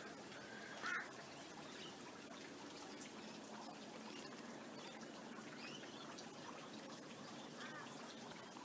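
Faint outdoor ambience: a steady low hiss with a few short bird calls, one about a second in and a couple more later on.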